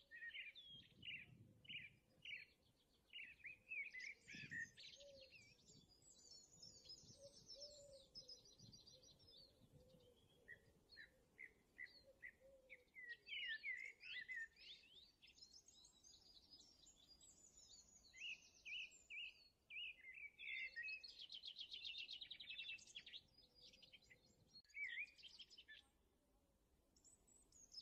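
Faint birdsong: quick high chirps and rapid trills in bursts, separated by short pauses.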